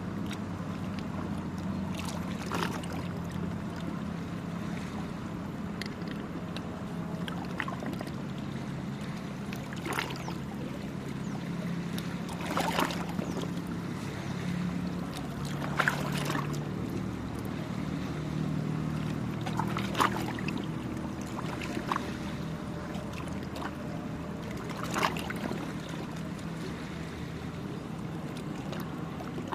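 Small sea waves lapping and splashing against the shore, with a sharper splash every few seconds, over a steady low motor drone.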